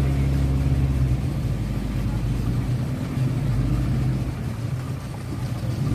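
An engine running steadily with a low, even hum that swells and eases slightly.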